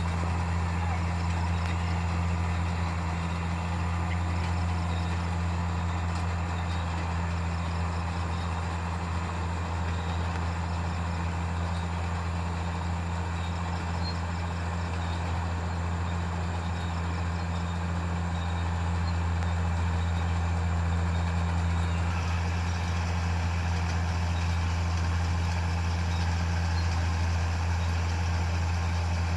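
Heavy machine's engine running steadily at a constant speed, a deep, even drone that gets slightly louder about two-thirds of the way through.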